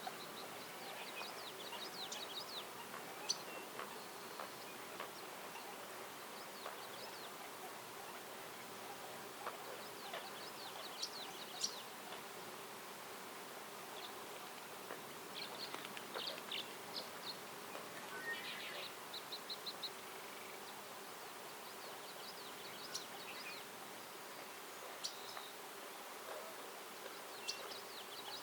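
Small songbirds chirping and trilling in short bouts of rapid notes every few seconds, over a steady background hiss and a faint low drone.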